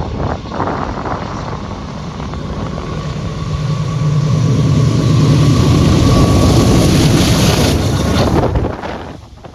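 Norfolk Southern intermodal freight train passing close by, a loud steady rumble of wheels on rail with wind on the microphone, growing louder toward the middle and cutting off sharply near the end. A thin steady squeal runs through the first part.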